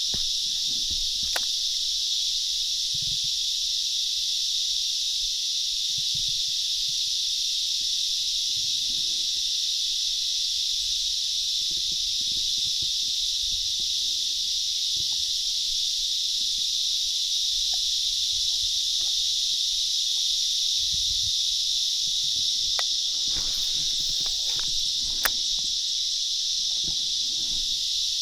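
A steady, high-pitched insect chorus droning without a break, with a few faint knocks and sharp clicks, one louder click near the end.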